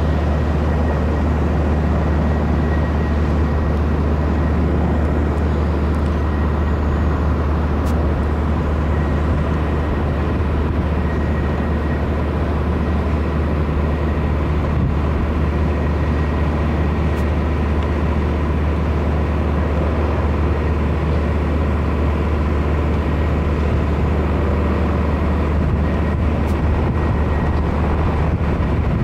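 Little Bird light helicopter running steadily in flight: a constant loud, low rotor drone with a thin steady whine above it.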